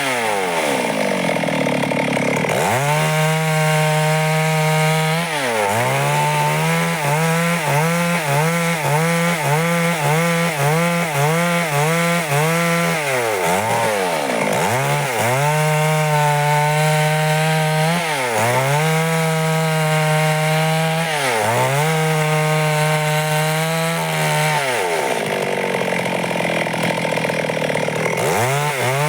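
Stihl chainsaw running at high revs while sawing through wood. Its engine pitch repeatedly sags and climbs back: a long dip near the start, a run of quick regular dips through the middle, and a longer one near the end.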